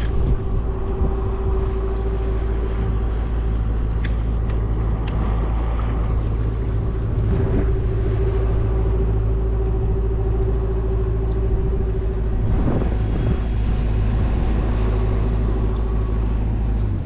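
Boat's outboard motor running steadily under way, a constant engine drone.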